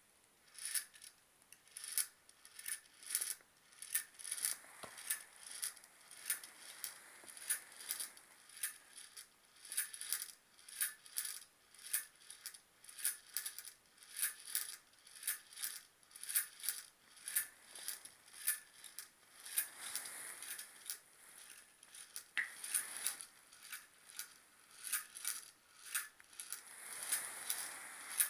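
Small Stirling engine running, its moving parts clicking in a steady rhythm of about two clicks a second.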